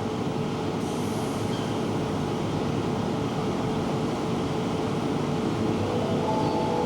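Electric commuter train noise: a steady rumble with a faint steady hum.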